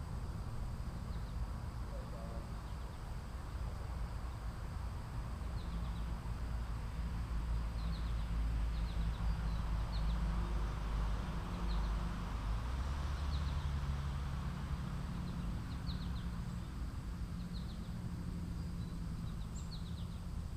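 Outdoor ambience: a steady low rumble with faint, short high chirps scattered irregularly through it.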